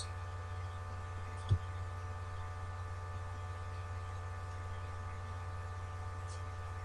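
Steady electrical mains hum with a faint high whine above it, and a single soft low thump about a second and a half in.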